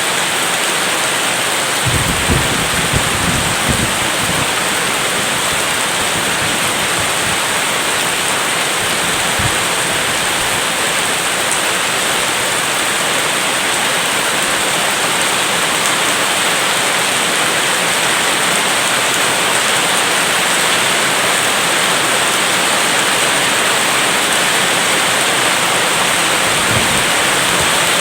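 Steady, dense hiss of heavy rain, with a low rumble of distant thunder about two seconds in and again briefly near the end.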